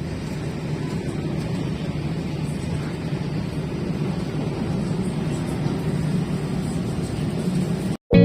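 Steady low rumble of a train running, which cuts off abruptly near the end.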